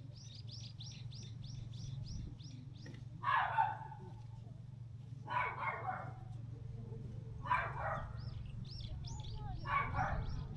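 A dog barking: four single barks about two seconds apart. Between them a bird chirps in quick trains of short high notes, several a second.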